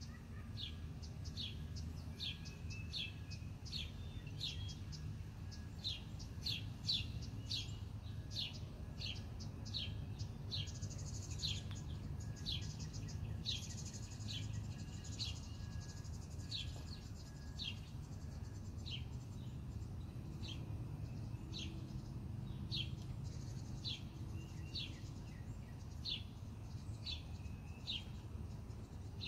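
A songbird chirping over and over in short, sharp high notes, about one or two a second, over a steady low background rumble. Twice in the middle a higher, hissy buzz joins in for a second or two.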